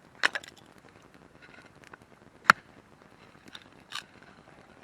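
Wood campfire crackling, with a few sharp pops: the loudest about halfway through, others near the start and near the end.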